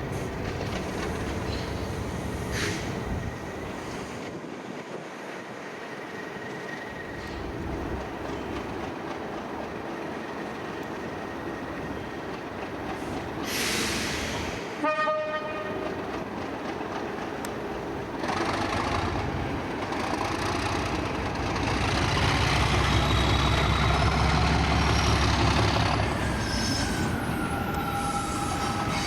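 Train running through a station, with a short horn toot about halfway. A heavy train rumble then builds and is loudest shortly before the end.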